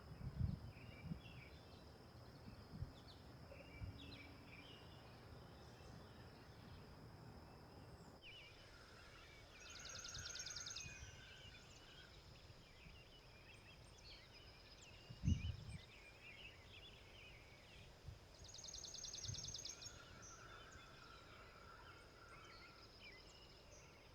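Birds singing faintly in an open meadow: scattered short high chirps, with one bird giving a rapid trilled song twice, about nine seconds apart. A faint steady high-pitched tone runs underneath, and a single low thump comes about halfway through.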